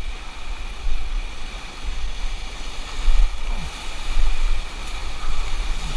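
River water rushing around a raft, with a low wind rumble on the microphone.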